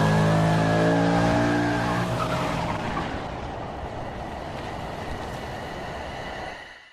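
A car engine running at speed, its pitch shifting slightly, then fading away into a rushing noise that dies out and cuts off near the end.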